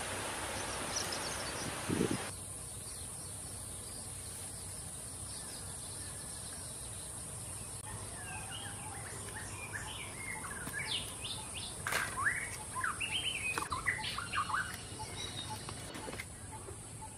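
Birds chirping in a rapid string of short, sweeping notes through the second half, over a steady high hiss. A single soft knock about two seconds in.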